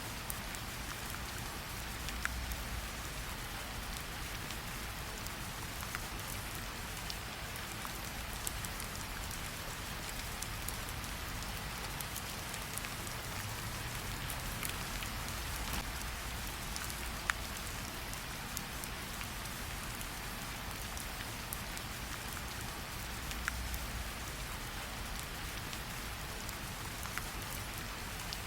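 Steady rain falling, with a faint low rumble underneath and a few sharp campfire crackles now and then.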